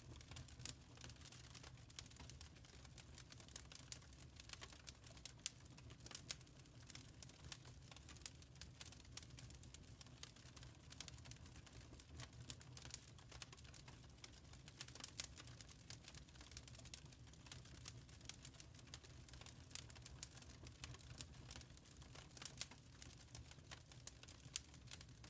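Wood fire crackling in a fireplace: faint, irregular pops and snaps over a steady low rumble.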